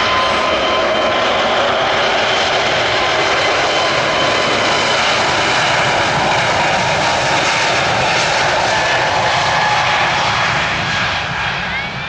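Airbus A320-200 jet engines running loud and steady, a roar with a thin high whine over it, fading away near the end.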